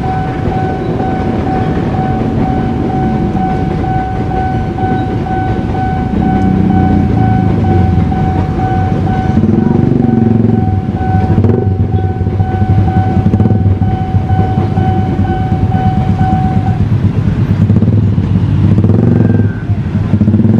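A level-crossing warning bell rings in a rapid, even pulse over the low rumble and clatter of a passing locomotive-hauled passenger train, the KA Matarmaja, with motorcycle and car engines running. The bell stops about seventeen seconds in, and motorcycle engines pick up near the end.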